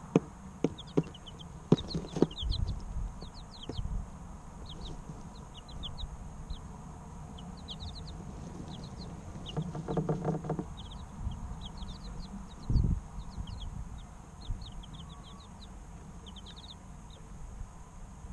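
Three-week-old chicken chicks peeping in short, quick, falling chirps throughout, with a few sharp knocks near the start and low scuffles and thumps about ten and thirteen seconds in.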